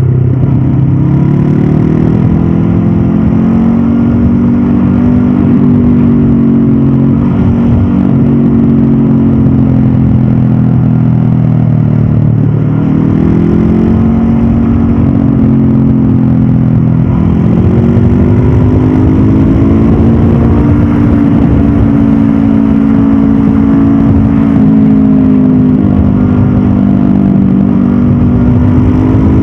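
Honda CB500F's 471 cc parallel-twin engine under way, the revs climbing and dropping several times as the rider rolls the throttle on and off, with wind rush behind it.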